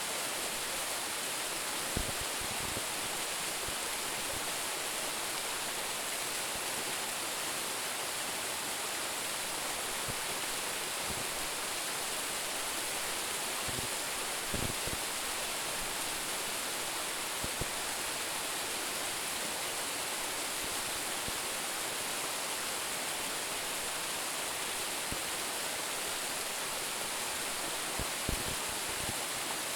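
Small waterfall, about a ten-metre drop, rushing and splashing steadily onto the rocks below, with a few brief low thuds.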